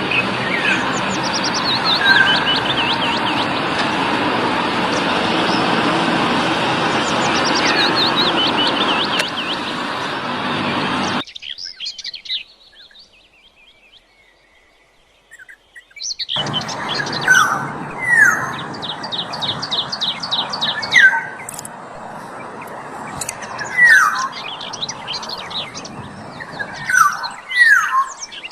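Black-naped orioles (kepodang) and other birds calling: short downward-slurring calls repeated every few seconds, with quick high twittering series between them. For the first half the birds sit under loud, steady rushing noise, which cuts out about a third of the way in, followed by a few seconds of near silence before the calls come back clear.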